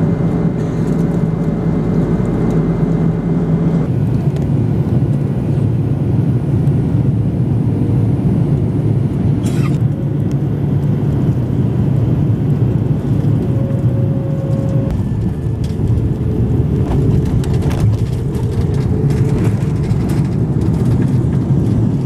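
Airbus A330-300 airliner heard from inside the cabin: a loud, steady rumble of jet engines and rushing air. A steady hum underneath drops out about four seconds in.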